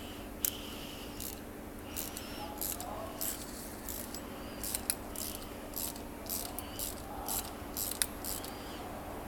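Irregular metallic clicks and taps of hand tools and small steel parts being worked on a 1957 Chevrolet Bel-Air power steering control valve, as its bolts are fitted into place.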